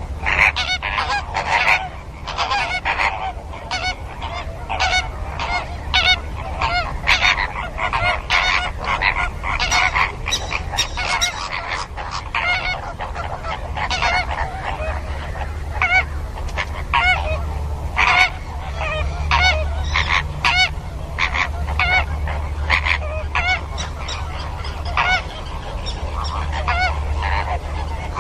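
A flock of flamingos calling: many overlapping, goose-like honking calls repeating without pause, over a steady low hum.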